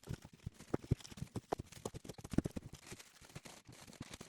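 Frozen food packages being handled and packed, giving a quick, irregular run of light knocks and thumps.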